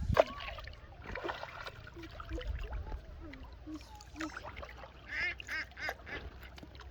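Birds calling: about four short calls in quick succession around five seconds in, with scattered quieter calls earlier, over a low steady background noise.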